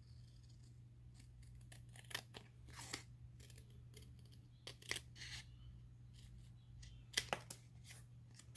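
Scissors cutting a circle out of thick paper: a few short snips in small clusters, with pauses between them.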